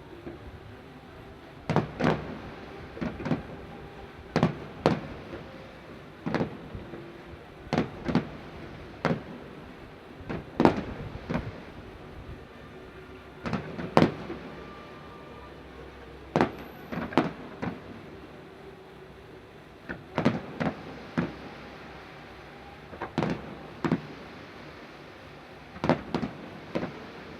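Aerial fireworks shells bursting in a long irregular run of sharp bangs, roughly one a second and sometimes two close together, each leaving a brief echo.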